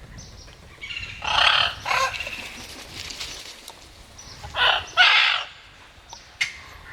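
Parrots squawking harshly as they fight: two pairs of loud, raspy screeches, one pair about a second in and another near five seconds, followed by a single sharp click near the end.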